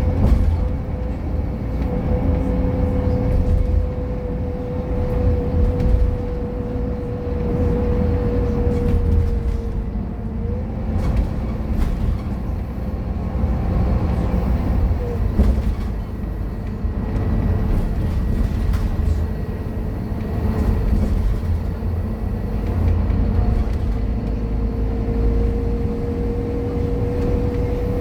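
Scania K230UB bus running on the road: a heavy, steady engine rumble with a steady whine over it that drops away about ten seconds in and comes back near the end, plus a few light rattles in between.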